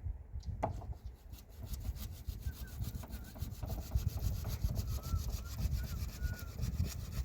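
Rapid, even scraping strokes, several a second, like a hand saw or rasp working back and forth, with a few short bird chirps behind them.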